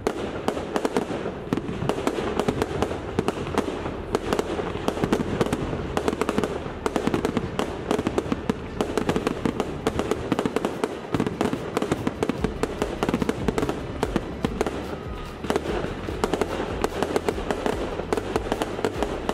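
Fireworks display: a rapid, continuous barrage of aerial shell bursts and crackling, many sharp bangs a second.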